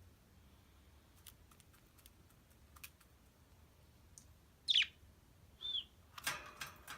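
Pet birds chirping: a quiet stretch of scattered small clicks, then one sharp falling chirp about two-thirds in, a short arched note right after, and a brief rustle near the end.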